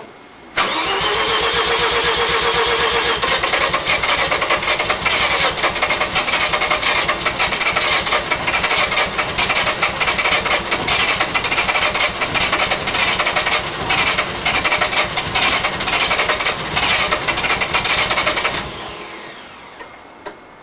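Bridgeported six-port 13B rotary engine in a turbocharged Mazda RX-7 catching about half a second in and running loud and uneven, with constant pops and stumbles, for about eighteen seconds before cutting out, a whine falling away as it spins down. It is running on its first startup with raw fuel in it, a little flooded.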